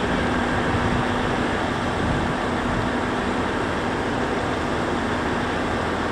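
Steady running noise of a Kintetsu electric train at the platform, with a steady hum that stops about three and a half seconds in.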